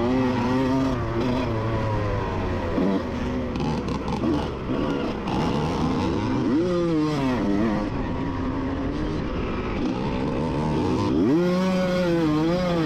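Two-stroke single-cylinder engine of a 1988 Honda CR125 motocross bike racing, its pitch rising and falling with the throttle and gear changes, climbing sharply about six and eleven seconds in.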